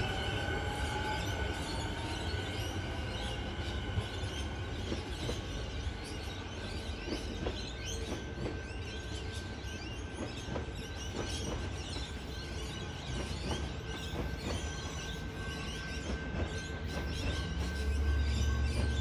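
Train at a railway station: a steady low rumble with a steady high-pitched whine, scattered faint ticks, and the rumble swelling near the end.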